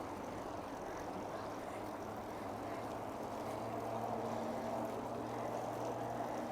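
Steady rumble of highway traffic with a low engine hum; a second, higher steady drone joins about four seconds in as a vehicle passes.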